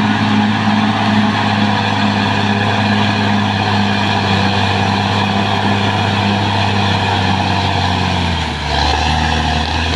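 Caterpillar D6R XL bulldozer's diesel engine running hard at a steady speed. About eight and a half seconds in, its pitch drops as the engine slows.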